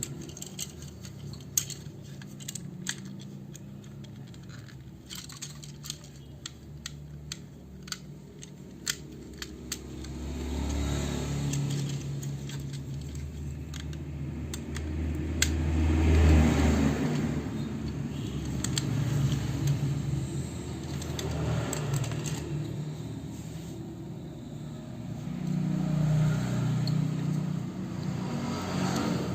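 Plastic parts of a transforming toy robot clicking as it is handled, then a low rumbling that swells and fades several times.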